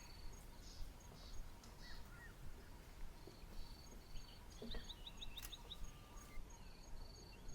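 Quiet bushveld ambience: insects chirping in faint, evenly pulsed high trills, with a brief quick run of about six high bird notes a little before the middle.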